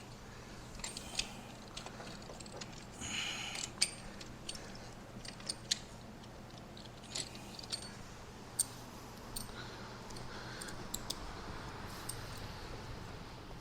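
Scattered light metallic clicks and clinks of hand tools and small parts being handled during work in a car's engine bay, with a short hiss about three seconds in. A steady low hum runs underneath.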